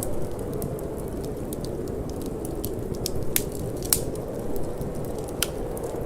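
Wood fire burning in a fireplace, crackling with scattered sharp pops; the loudest pops come about four seconds in and near the end. A steady low rush of wind runs underneath.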